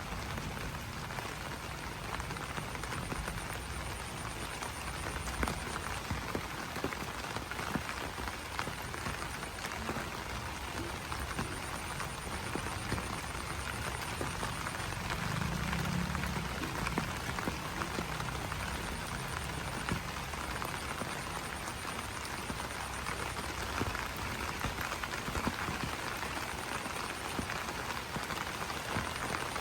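Rain falling on banana leaves: a steady patter of many small drops. A high pulsing trill comes and goes, and a brief low call sounds about halfway through.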